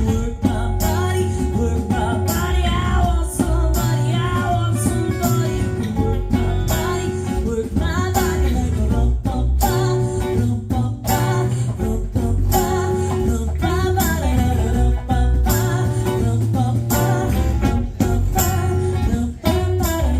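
Live band music: electric or acoustic guitar over bass and drums, with a steady beat.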